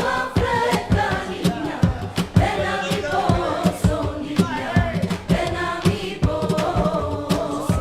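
A Spanish Christmas carol (villancico) sung by a group of voices over a steady, quick percussive beat.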